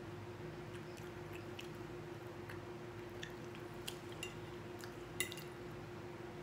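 A person chewing a mouthful of food, with faint wet mouth clicks scattered throughout and one sharper click about five seconds in. A steady low hum runs underneath.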